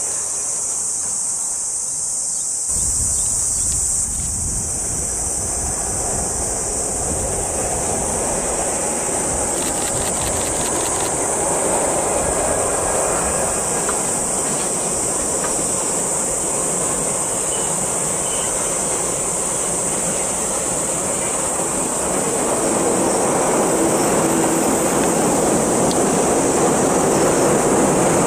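A long freight train of container wagons rolling across a railway viaduct, a steady rumble of wheels on rail. It grows louder in the last few seconds as a 185-series express train comes up. Insects keep up a steady high buzz behind it.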